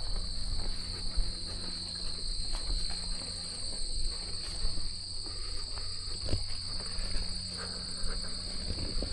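Insect chorus from a humid marsh: a steady, unbroken high-pitched trill, with a low rumble underneath.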